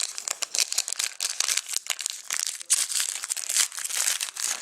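A hockey card pack's foil wrapper being crinkled and torn open by hand, a stubborn pack that is slow to open; a dense, continuous crackling.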